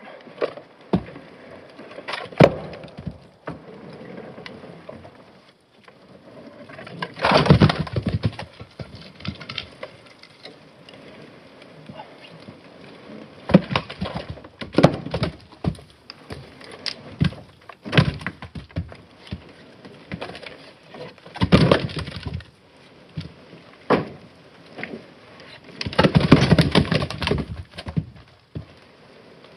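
Douglas fir firewood rounds tumbling out of a truck box and knocking against each other as they drop, in irregular clattering bursts of several at once with single wooden knocks between.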